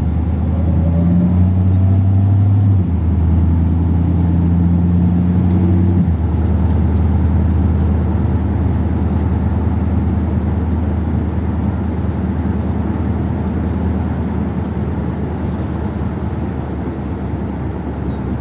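1957 Ford Thunderbird V8 driving on the road, running on two barrels of its carburettor. The engine note steps up about a second in, drops near three seconds and again near six seconds as it shifts up through the gears, then settles into a steady cruise.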